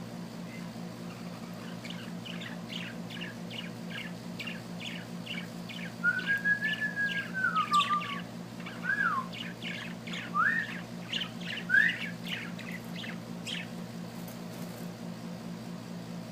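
A small bird singing: a run of quick chirps, about three a second, with whistled glides in the middle, one long arching whistle followed by shorter rising and falling ones. A steady low hum runs underneath.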